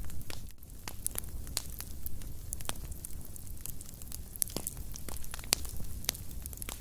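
Fire burning in a fireplace, crackling with many irregular sharp pops over a steady low rumble of the flames.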